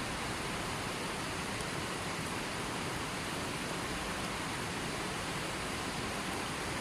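Steady rushing water: an even, unbroken hiss with no separate drops, splashes or bird calls.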